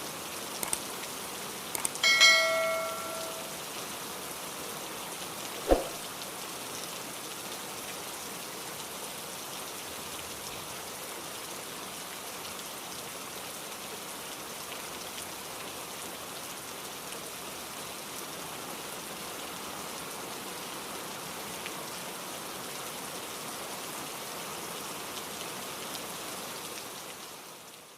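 Steady rain falling. About two seconds in there is a brief metallic ring lasting about a second, and a sharp knock a few seconds later; the rain fades out near the end.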